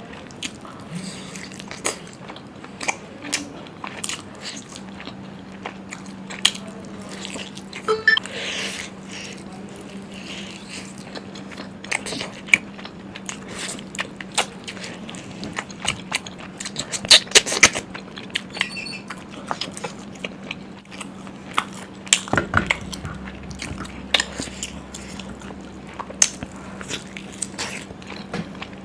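Close-miked chewing and biting of mutton curry, chilli chicken and puri, with many scattered sharp mouth clicks and a cluster of louder bites around the middle. A steady low hum lies underneath.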